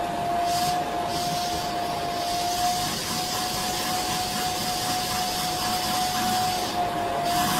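Vacuum cleaner running steadily through its hose, the nozzle held against a cat's fur: a steady whine over the rush of air.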